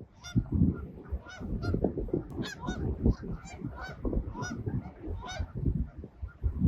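A flock of Canada geese honking: many short honks overlapping in quick succession, about two a second, over a low rumble.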